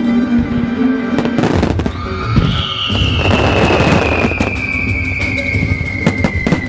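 Fireworks from a music starmine bursting over the show music, with dense crackling and popping and a low rumble. About two seconds in, a single long high whistle-like tone starts and glides slowly downward in pitch.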